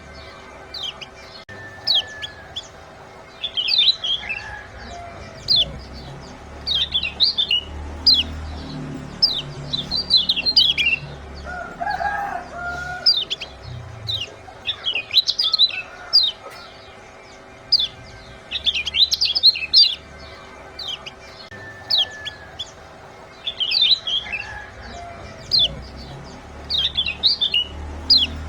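Lemon-bellied white-eye (kecial kuning) giving rapid clusters of short, high 'ciak' chirps, a burst every second or two, repeated as a call track used to stir caged birds into song.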